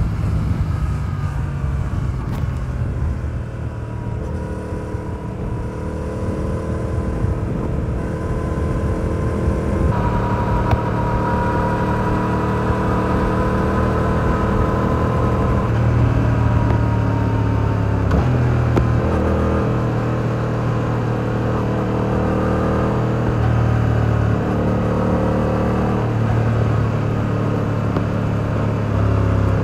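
Yamaha R7's 689 cc parallel-twin engine running through its stock exhaust while the bike is ridden. The engine note falls over the first few seconds, then holds fairly steady, with a few sudden steps in pitch about ten and eighteen seconds in.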